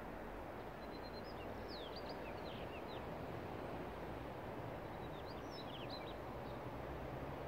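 Birds chirping in short, quick high calls, in a cluster about a second in and again around five to six seconds, over a steady low outdoor background noise.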